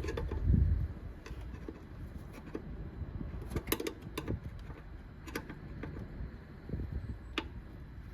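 Small sharp clicks and knocks from hands working a stuck plastic electrical connector clip off an engine sensor, after a low thump about half a second in.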